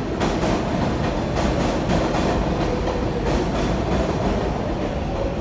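New York City Subway 7 local train moving on elevated track: a steady rumble with wheels clacking irregularly over rail joints.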